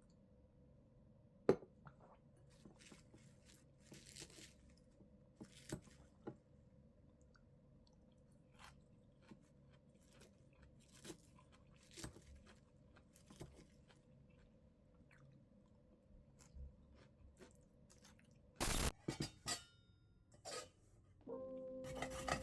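Quiet close-up eating: scattered chewing crunches and light clicks of utensils over a faint steady hum. A brief louder noise comes near the end.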